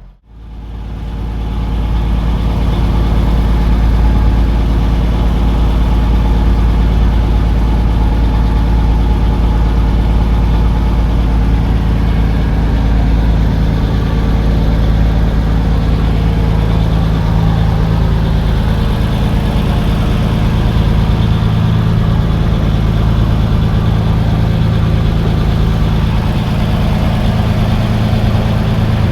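Fishing boat's engine running steadily at a constant speed: a loud, even low drone.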